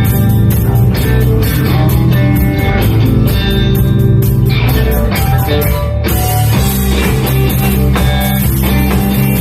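Math rock band playing: plucked guitar lines over bass and a drum kit, loud and dense, with the cymbals dropping out for a moment about six seconds in.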